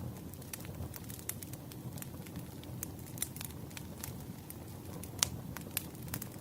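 Wood campfire burning: a low steady rumble of flames with irregular crackles and pops, the sharpest about five seconds in.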